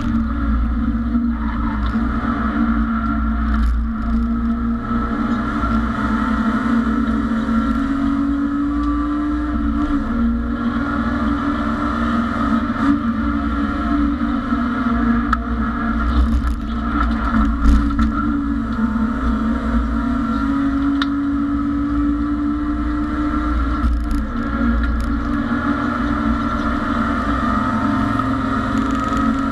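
BMW E30 race car's engine heard from inside the stripped cockpit, running hard at high revs on track. Its pitch rises and falls gently with the throttle.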